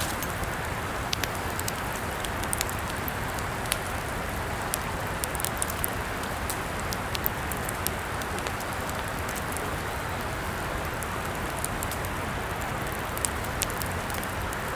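Campfire burning with a steady hiss, broken by irregular sharp crackles and pops of burning wood.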